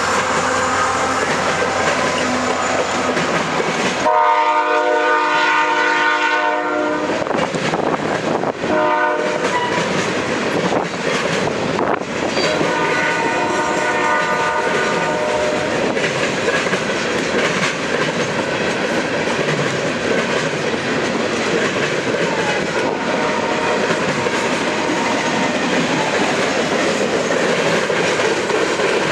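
CSX freight locomotive sounding its multi-chime air horn in several blasts: a long one about four seconds in, a short one near nine seconds, and another long one a few seconds later. Under the horn is the steady noise of the manifest freight train running past on the rails.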